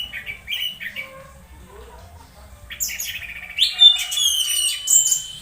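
Orange-headed thrush singing a fast, varied song of short, rapidly repeated notes; after a brief lull about two seconds in, it resumes in a louder, dense burst mixing chattering notes with a few held whistles.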